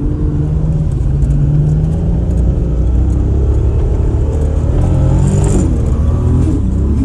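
Toyota Supra MK4's big-turbo 2JZ inline-six engine running while driving, its pitch steady at first and then rising and falling with the throttle.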